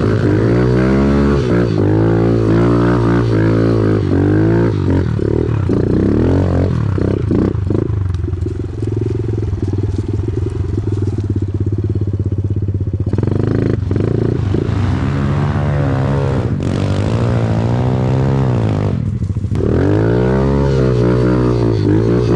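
Off-road vehicle engine being ridden along a trail, its revs rising and falling over and over as the throttle is worked, with a short let-off late on.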